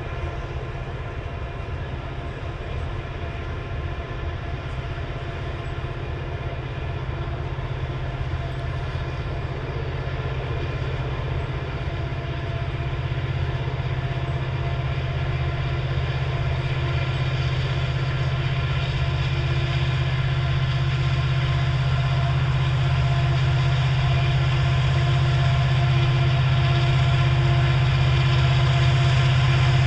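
Loaded coal train climbing the grade: the rumble of the hopper cars with the steady drone of diesel helper locomotives, growing steadily louder as the locomotives approach.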